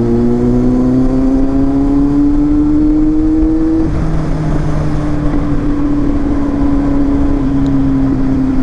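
Kawasaki Z800's 806 cc inline-four engine pulling under throttle, its note rising steadily for about four seconds. The note then drops a little and holds, easing slightly lower, with wind rushing past the microphone.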